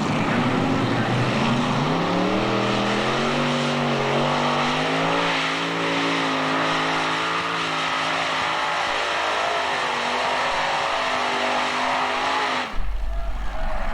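Modified-class pulling tractor's engine revving up and running hard at high revs, its pitch climbing over the first few seconds and then holding steady. The sound breaks off abruptly near the end.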